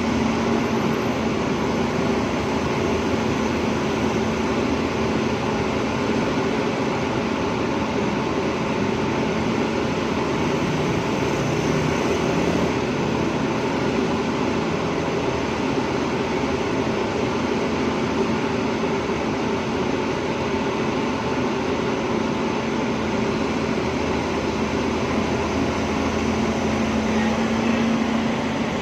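Diesel engine of a hydraulic excavator running steadily, with a constant hum and no breaks.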